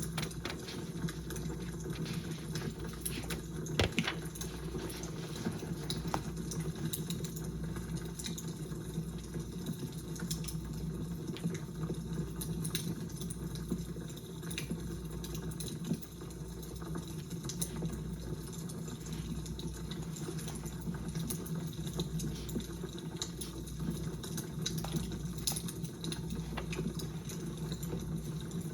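Wood fire crackling, with frequent sharp pops and snaps over a steady low rumble; one louder pop about four seconds in.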